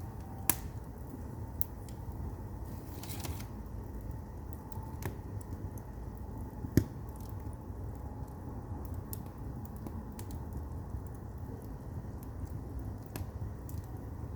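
Firewood burning in a traditional Korean agungi firebox: a steady low rumble of the fire with scattered crackles and pops. Two pops stand out, one about half a second in and one about halfway through, and there is a brief hiss about three seconds in.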